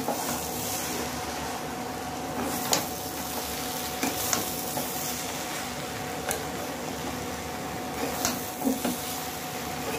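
Grated papaya and soya chunks sizzling in a kadhai while a spatula stirs and turns them, the spatula clicking against the pan now and then. The mix is being fried for a few minutes after cumin powder has been stirred in.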